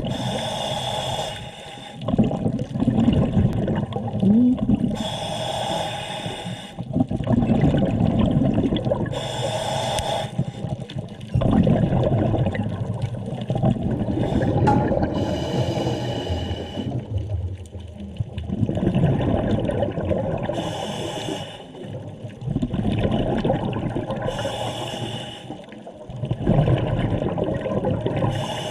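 Scuba diver breathing through a regulator underwater: a rush of exhaled bubbles about every four to five seconds, with bubbling and gurgling between.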